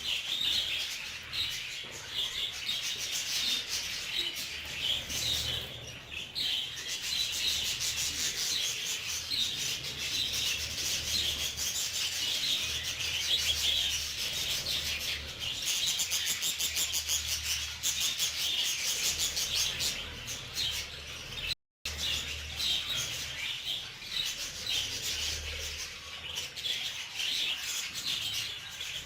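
A group of budgerigars chirping and chattering continuously, with a stretch of fast, rapid-fire chatter a little past the middle.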